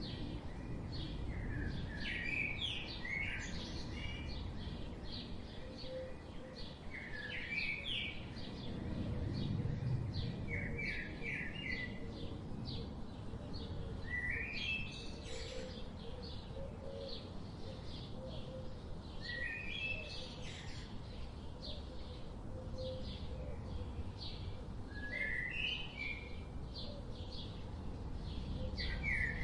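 Songbirds chirping, many short notes with brighter quick runs every few seconds, over a steady low rumble of background noise.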